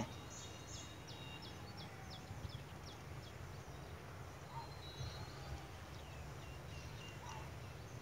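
Small birds calling in the background: a quick run of short, high, falling chirps for the first few seconds, then a few thin whistled notes, over a low rumble.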